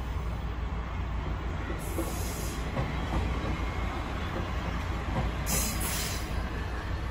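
Kominato Railway diesel railcar running along the line: a steady low rumble of engine and wheels on rail, with two short high hissing bursts, about two seconds and five and a half seconds in.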